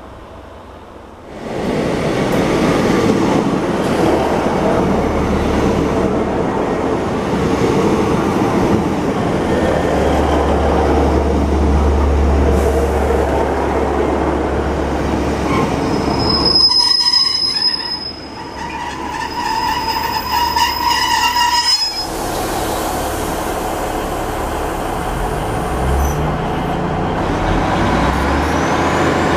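Transport for Wales passenger trains (a Class 769 and Class 150 diesel units) running through stations close by: a steady loud rumble of the train on the track, rising suddenly about a second and a half in. Part-way through there is a high-pitched wheel squeal lasting several seconds.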